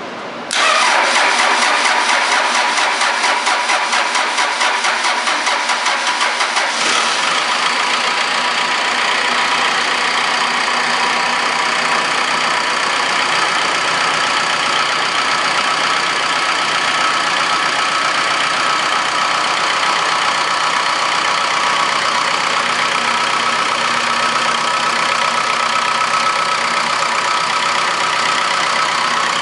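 Cummins 4BT 3.9 four-cylinder diesel engine cranking on its starter for about six seconds, then catching about seven seconds in and settling into a steady idle. It is a start after the engine has sat for over a week.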